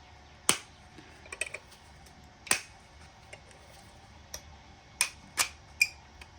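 Sharp metallic clicks and taps of small furnace pilot-burner parts being worked and pried apart by hand: a handful of separate clicks, with three in quick succession near the end.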